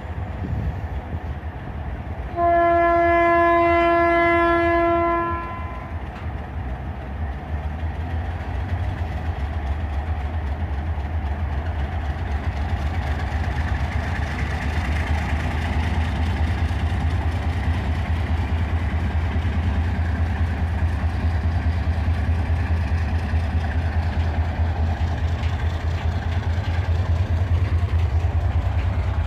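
Diesel locomotive horn sounding one chord, held about three seconds, followed by the locomotive's engine running with a steady low pulsing rumble that slowly grows louder.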